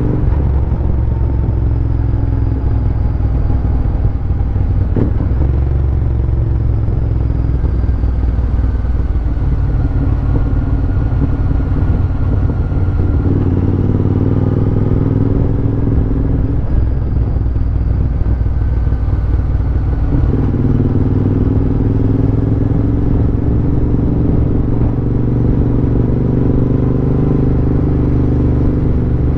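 Royal Enfield Interceptor 650's parallel-twin engine and exhaust running under way, recorded from the bike, its pitch rising and falling a little as the throttle changes.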